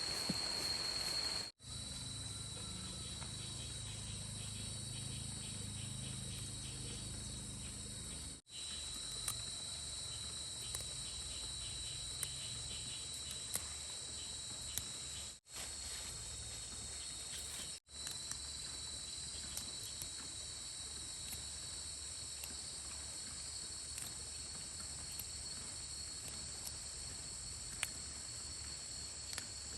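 Insects, likely crickets, chirring in a steady high-pitched drone, with several brief dropouts where the sound cuts out for an instant.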